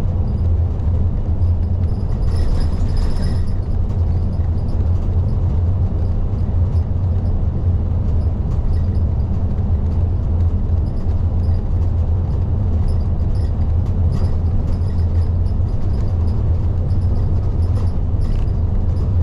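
Interior of a moving diesel city bus (type LDG-KV234Q3): a steady low engine drone with road noise, and a brief rattle about two seconds in.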